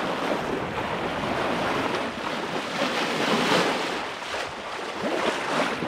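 Sea water rushing and splashing along a sailboat's hull under way, with wind buffeting the microphone.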